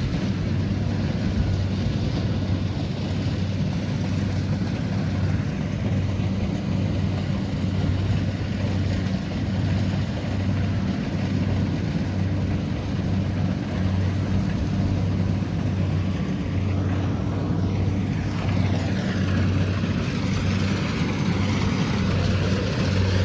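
Kubota DC70pro combine harvester running steadily, a deep even engine hum with the noise of its working machinery. Briefly, about three-quarters of the way in, a higher sliding tone rises and falls over the drone.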